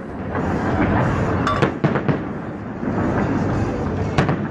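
Aerial fireworks bursting overhead: a continuous rumble of booms, with sharp bangs about a second and a half in and again near the end.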